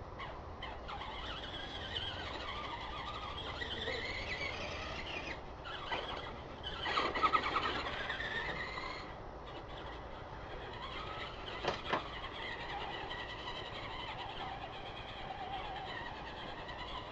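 Electric motors of small RC monster trucks whining, the pitch rising and falling as the trucks speed up and slow down, loudest about seven seconds in.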